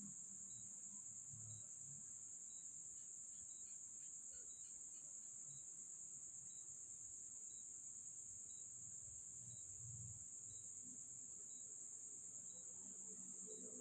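Faint night insect sound: a steady high-pitched insect drone, with a cricket chirping regularly about once a second.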